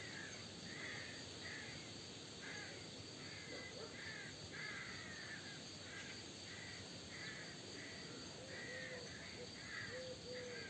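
Birds calling over and over, a steady run of short calls about two a second, with a few lower calls joining in the last few seconds.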